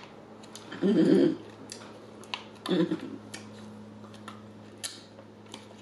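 Close-up chewing of a soft pretzel dipped in beer cheese: wet mouth clicks and smacks scattered throughout, with two louder, low mouth sounds about one and three seconds in.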